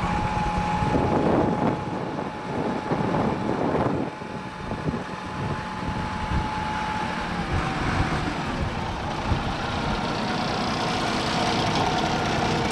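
Diesel engine of a 1987 Kalmar DC12-1200 heavy forklift running. Over the engine sound is a steady high whine that drops slightly in pitch about seven seconds in.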